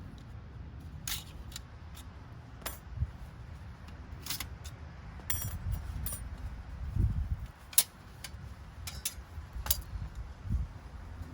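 Scattered light clicks and clinks of small camp gear being handled, over a steady low rumble.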